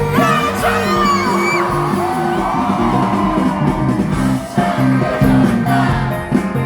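Live rock band playing loudly with guitars, with a high voice wailing and sliding in pitch over it in the first couple of seconds.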